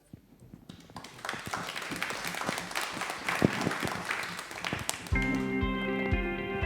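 Congregation applauding. About five seconds in, music from a played video begins: guitar over a steady low beat.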